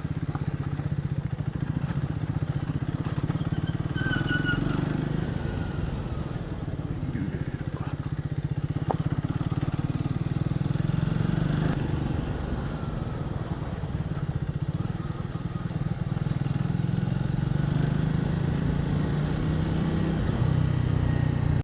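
Motorcycle engine running steadily while riding, a low, even rumble that holds throughout, with a brief high tone about four seconds in.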